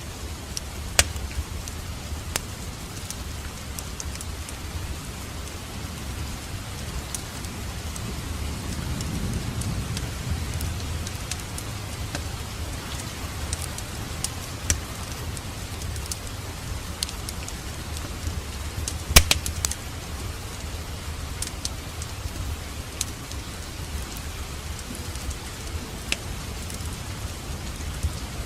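Wood fire crackling in a fireplace: a steady low rumble of burning with scattered sharp pops and snaps, including a cluster of louder pops about two-thirds of the way through.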